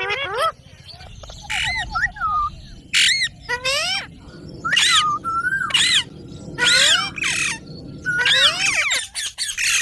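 Indian ringneck parakeet squawking repeatedly: sharp screeches that rise and fall in pitch, about one a second, with a quick run of short chattering notes about two seconds in and a fast flurry of calls near the end.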